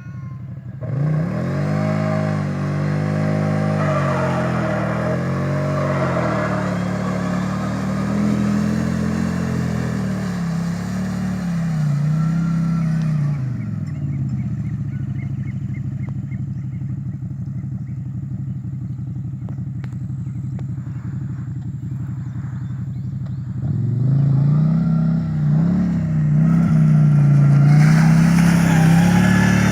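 Off-road vehicle engine revving hard, its pitch rising and falling over and over, then running lower and steadier for several seconds before revving hard again near the end.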